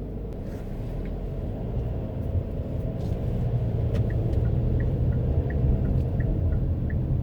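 A car's low road and engine rumble that grows louder over the first few seconds, as if the car is picking up speed. Short, evenly spaced ticks run through the second half.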